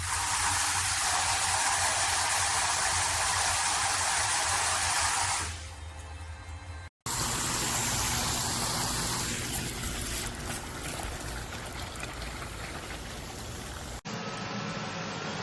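Water spraying from the hand shower of a Tipkook battery-pumped portable camping shower: a strong, even hiss for about five seconds, then, after a cut, a softer running-water sound with a few small clicks.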